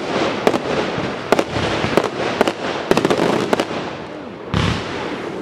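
Fireworks display: a quick series of sharp bangs from bursting aerial shells, about two a second, over a steady crackle. A louder rushing burst comes about four and a half seconds in.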